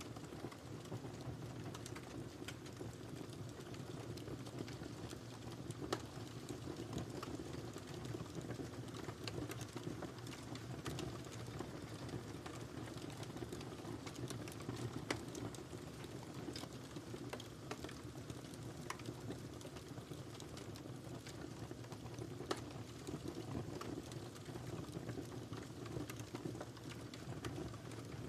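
Wood fire burning in a fireplace: a steady low rumble with a dense run of small crackles and an occasional sharper pop.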